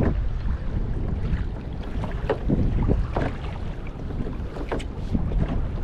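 Wind buffeting the microphone on a fishing kayak at sea, a steady low rumble with short splashes or knocks scattered through it.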